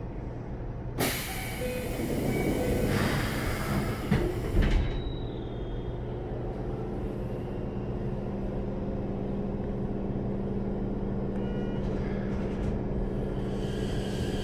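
Inside a Keikyu 1500-series electric train car: a burst of compressed-air hissing for about four seconds, ending in two thumps, then a steady hum with a few faint constant tones from the car's equipment.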